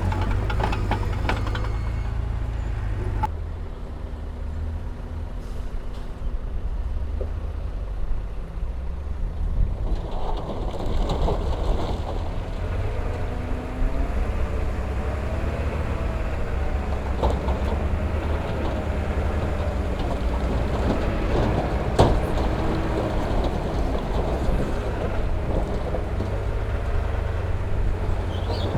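Heavy diesel engines of dump trucks and a bulldozer running with a steady low rumble, with one sharp clank about three quarters of the way through.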